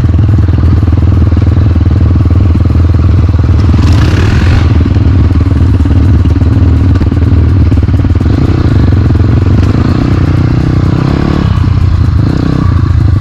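Enduro motorcycle engine running steadily, loud and close, without revving.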